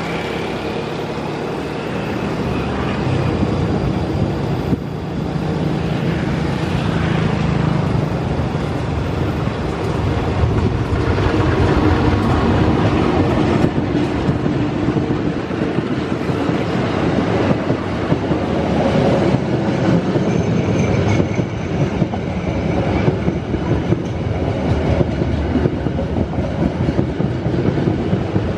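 A passenger train hauled by two diesel locomotives approaches and passes close by. The locomotive engines drone steadily at first, then as the coaches go by comes a fast, continuous clickety-clack of wheels over the rail joints.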